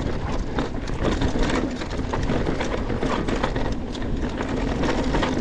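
Mountain bike descending a rough, rocky dirt trail: a steady run of tyre noise over the dirt, broken by a constant rattle of many small knocks and clicks as the bike hits loose rocks.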